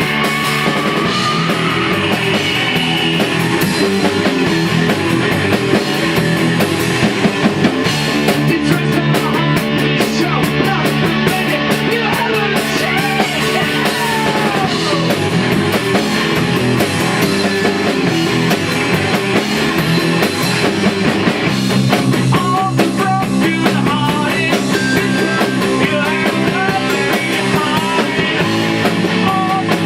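Punk rock band playing a song live: electric guitar and drum kit, loud and continuous.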